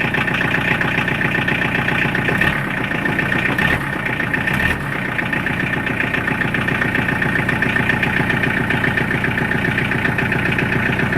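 Vehicle engine idling steadily just after a cold start, with an even pulsing exhaust beat. A few brief low thumps come about two to five seconds in.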